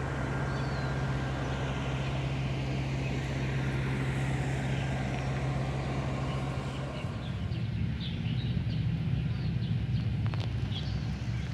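Steady drone of a road vehicle's engine and tyre noise while riding along. About seven seconds in, the even low hum changes to a rougher rumble.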